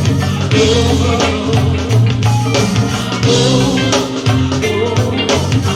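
Live go-go band music: a steady drum and percussion groove over sustained bass notes, with a voice singing over it.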